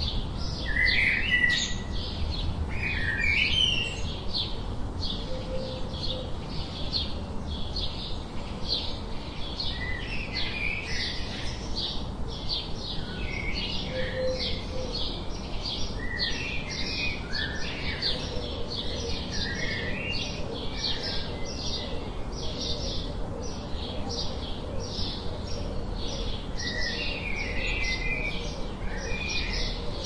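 Birds chirping: short high chirps repeat about twice a second throughout, with clusters of lower chirps now and then, loudest in the first few seconds, over a low rumble.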